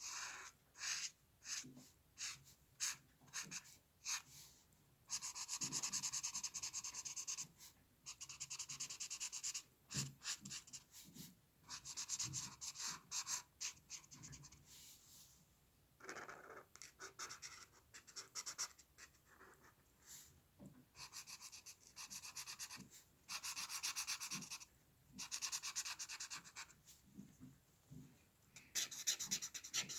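A drawing tool scratching across paper by hand: short separate strokes, with several stretches of a few seconds of fast back-and-forth scribbling, as in shading or filling in.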